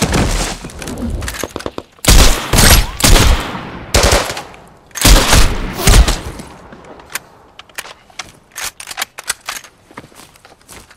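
Rapid gunfire in heavy volleys: rifle shots in quick strings, three loud bursts in the first six or seven seconds, then scattered lighter single cracks.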